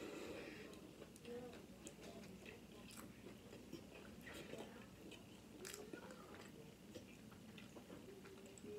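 Faint close-mouthed chewing of a breaded chicken tender, with scattered soft wet mouth clicks.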